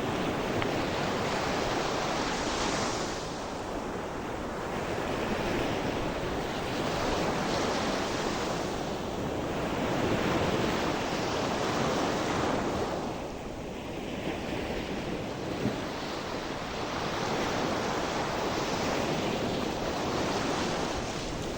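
Sea waves breaking and washing on the shore in a steady surf that swells and ebbs every few seconds, with some wind on the microphone.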